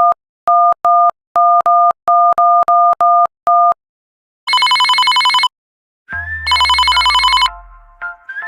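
Telephone keypad tones: about ten short, identical two-tone beeps in quick succession, as if one key is pressed again and again. Two buzzing, rapidly pulsing ring tones of about a second each follow, with a few steady tones starting near the end.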